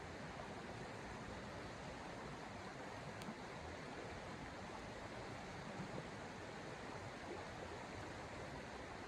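Steady rushing noise with a faint click about three seconds in.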